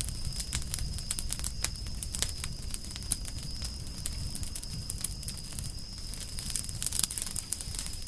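Campfire of burning firewood crackling, with irregular sharp pops over a low rumble of flame; a cluster of louder pops comes about seven seconds in.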